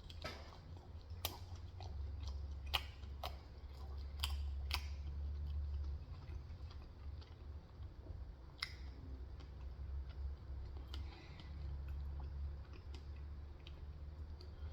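A person chewing McDonald's food with scattered wet mouth clicks and crunches, over a steady low hum.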